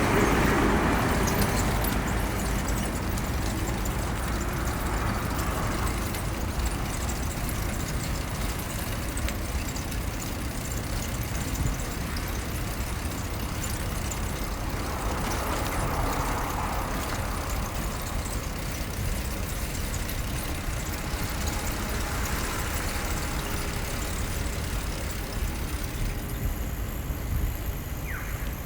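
City street traffic: motor vehicles passing, over a steady low rumble, with one swell of a passing vehicle at the start and another about halfway through.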